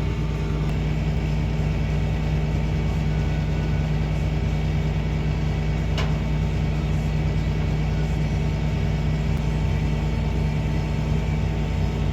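Tractor engine running steadily at an even pitch, with one sharp click about halfway through.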